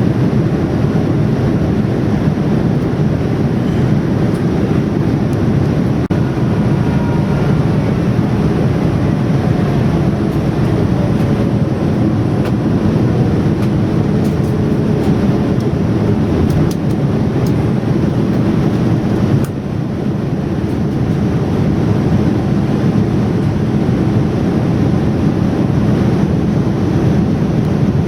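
Jet airliner cabin noise in flight: a steady, loud rushing of engines and airflow, dipping slightly about two-thirds through.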